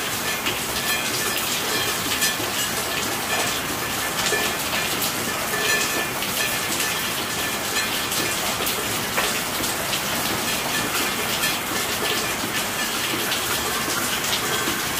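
Steady rain falling: an even hiss dotted with many small raindrop ticks.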